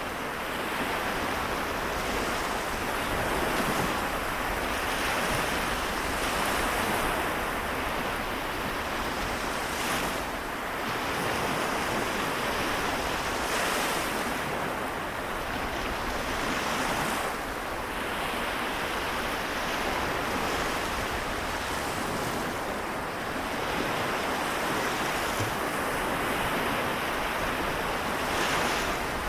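Sea waves washing in continuously, swelling and easing, with a brighter splash every few seconds.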